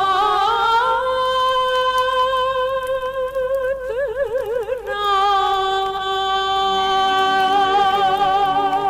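Turkish art music (Türk sanat müziği): a voice holds long notes, gliding from one pitch to the next, with a wide vibrato about halfway through.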